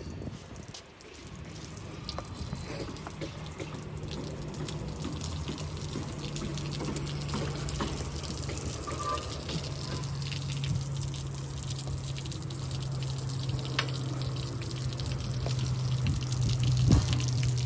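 Water running steadily, over a steady low hum, growing slowly louder.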